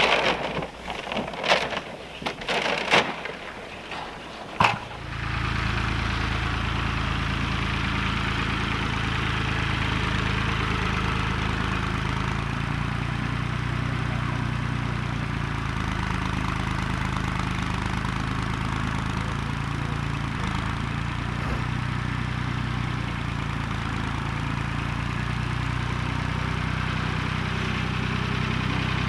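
A few loud, sharp knocks, then an engine starts about five seconds in and runs at a steady idle.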